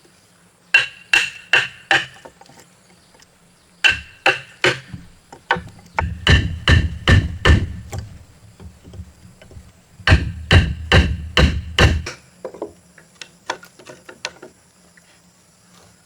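A hand tool striking timber in runs of quick blows, about three or four a second, each blow with a short ring. Four runs of three to six blows come with pauses between them, followed by lighter, scattered taps.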